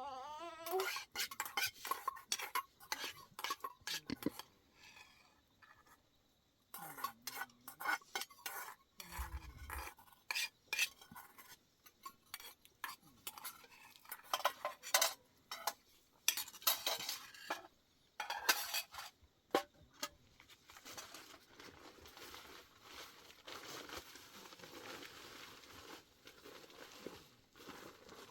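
Dishes and utensils clinking and knocking in an irregular run of sharp strikes, with a soft steady hiss over roughly the last third.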